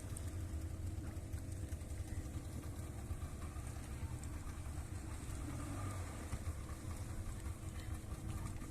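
Motorboat engine running steadily: a low, even rumble with a steady hum over it.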